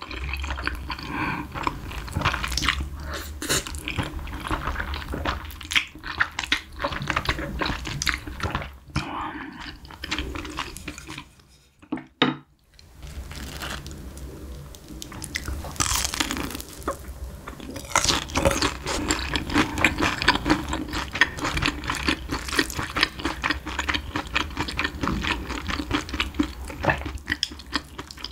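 Close-miked chewing of sticky, saucy fire chicken noodles, wet smacks and clicks, with crunchy bites into a fried cheese stick; the eating stops briefly about twelve seconds in.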